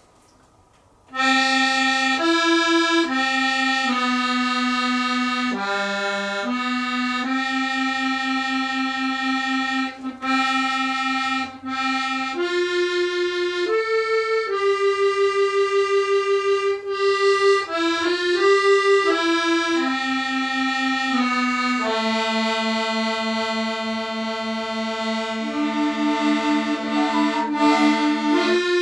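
A free-reed instrument playing a slow melody in long held single notes, starting about a second in, with a slight waver on the held notes near the end.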